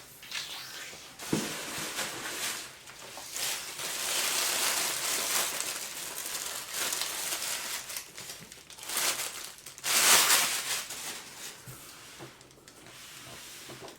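Packaging crinkling and rustling as a gift is unwrapped by hand, in irregular handling noise with a louder burst about ten seconds in.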